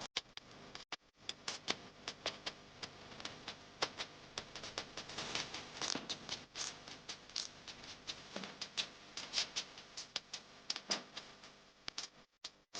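Rain falling, an even hiss with many irregular sharp taps of drops striking a surface. The sound cuts out briefly near the end.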